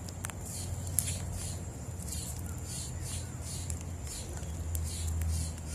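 Birds chirping at a seed feeding spot: a steady run of short, high, falling chirps, about two a second, over a low steady hum. There are a couple of sharp clicks in the first second.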